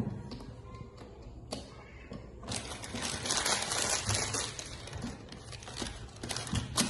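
Plastic snack packaging crinkling as it is handled, with a dense spell of crackling about two and a half to four and a half seconds in and scattered clicks around it.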